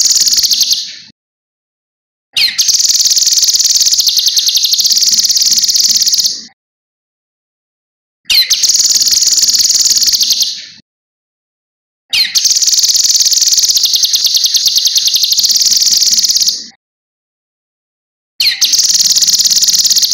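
Cucak kinoi singing in repeated bouts of fast, high trilling song, each two to four seconds long, with silent gaps between them. It is a songbird-training song recording.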